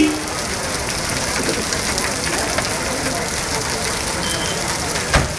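Steady monsoon rain falling, with a single thump about five seconds in.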